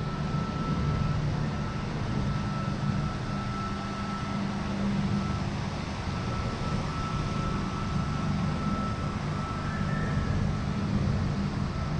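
Double-deck Sydney Trains electric train moving slowly along the platform: a steady low hum and rumble with a faint, constant high tone above it.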